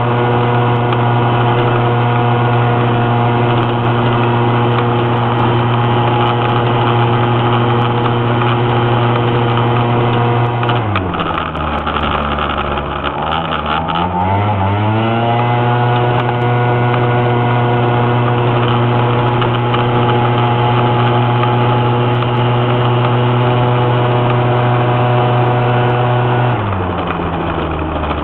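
Small old car's engine heard from inside the cabin, pulling steadily uphill. About eleven seconds in the revs fall away for a couple of seconds, then climb back to a steady pull, and they drop again near the end.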